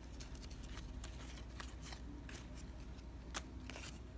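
Baseball trading cards being handled and flipped through by hand: a string of soft, irregular clicks and slides of card on card.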